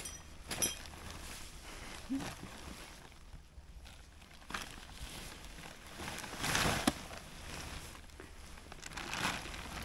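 Rustling and handling of a pop-up tent's fabric and frame as it is unpacked and unfolded, with a sharp click about half a second in and a louder rustle about six and a half seconds in.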